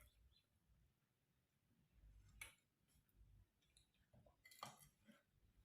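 Near silence, with a few faint clicks about two and a half seconds in and again near the end.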